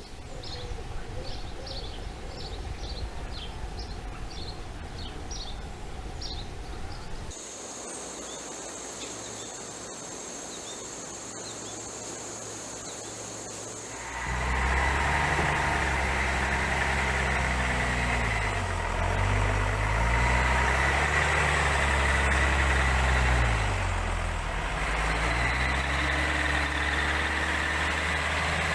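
A motor vehicle's engine starts running about halfway through, its speed rising and falling a few times, then running steadily. Before that there is a low rumble with a run of short high chirps, and then a quieter stretch.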